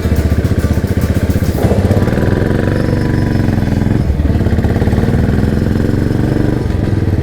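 Motorcycle engine running under way, its pitch rising and falling as the revs change.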